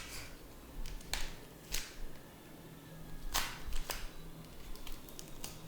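Handling noises from working cardboard and wood by hand: a few scattered short clicks and brief scrapes, with quiet in between.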